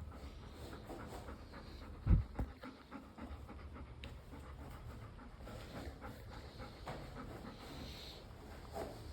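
A dog panting, with a dull low thump about two seconds in and a softer one just after.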